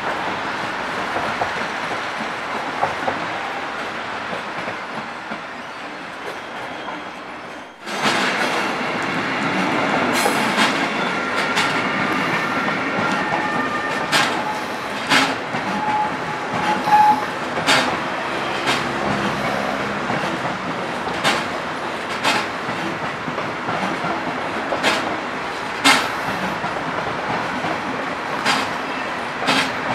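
Railway passenger coaches rolling past: first a double-deck regional train, then after a sudden cut a string of coaches whose wheels clack irregularly over rail joints and points, with several short squeals from the wheels.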